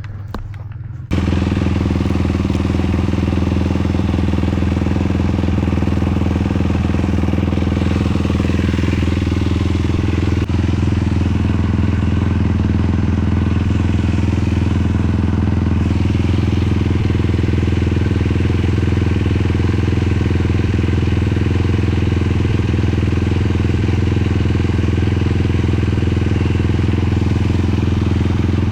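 Sport quad's 450 cc single-cylinder four-stroke engine running at a steady cruising speed, cutting in abruptly about a second in after a quieter low rumble.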